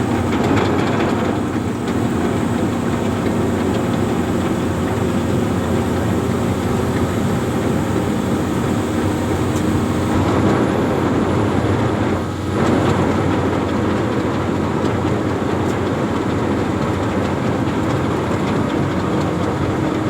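Amphibious excavator's diesel engine running steadily at a loud, even level, with a short dip about twelve seconds in.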